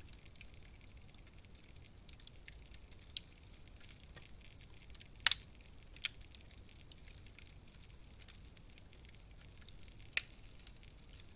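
Wood fire crackling in a fireplace: a soft hiss with scattered sharp pops, the loudest a quick double pop about five seconds in.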